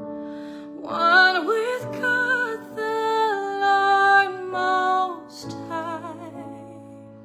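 A female voice sings a wordless, melismatic phrase with vibrato over soft sustained accompaniment, then stops after about five seconds as the accompaniment fades.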